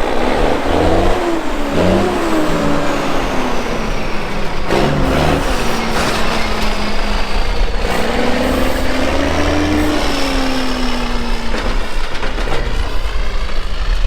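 A truck engine revving and pulling, its pitch climbing and falling back several times with a faint high whine above it, under steady wind noise.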